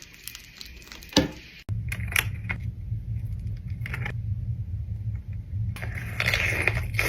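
Small clicks and taps of food and utensils being handled. A steady low hum starts about a second and a half in, and close-up crunchy chewing comes in near the end.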